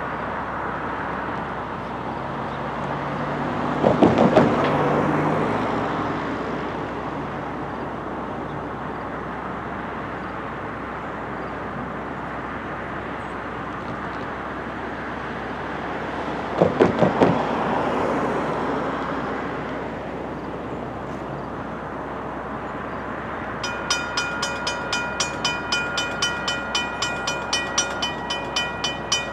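An approaching freight train led by an EMD SD70M-2 diesel-electric locomotive, a steady rumble that swells louder twice. Near the end a bell starts ringing in a steady rhythm, close to three strikes a second.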